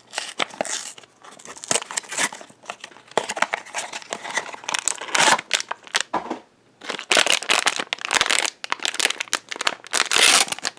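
Blind-box packaging being torn open and crinkled by hand, in a run of uneven rustling and tearing bursts with a short pause partway through.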